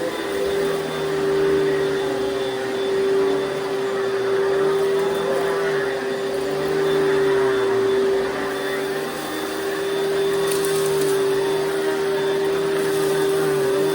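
A 1988 Panasonic Jet-Flo MC-6215 upright vacuum cleaner running, its motor giving a steady whine. Its loudness rises and falls every second or two.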